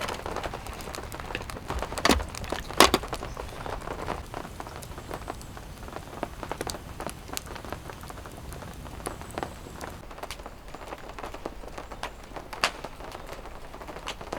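Steady rain falling, with irregular sharp ticks of drops striking a surface and two louder knocks about two and three seconds in.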